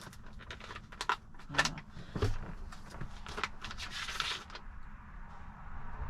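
A quick run of clicks and knocks from the plastic parts of a coffee maker being handled and shut, with a louder knock about two seconds in; it goes quieter for the last second or so.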